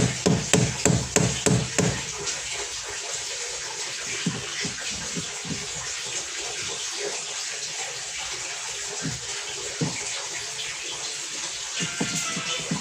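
Water running and splashing out of a washing machine whose drain had been clogged, with electronic music and a steady beat playing over it that stops about two seconds in.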